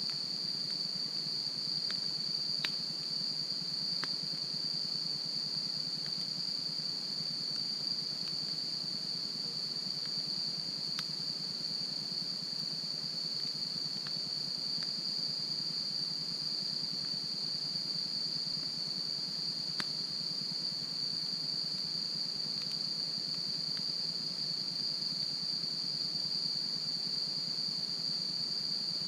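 A steady, high-pitched insect chorus trilling without pause, with occasional sharp pops and crackles from a wood campfire.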